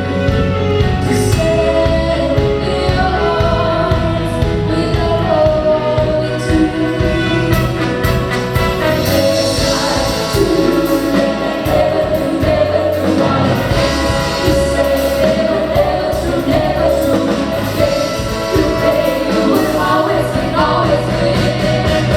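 Live band playing a pop ballad, with vocalists singing over bass and a steady drum beat.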